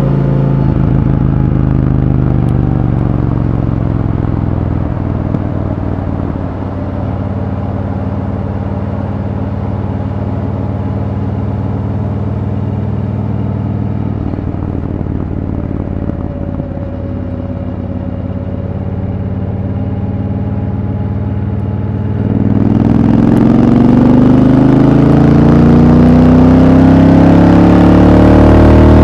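Triumph Thunderbird Storm's parallel-twin engine running under way at a steady cruising speed. About 22 seconds in the throttle opens: the engine gets louder and its note climbs steadily as the bike accelerates.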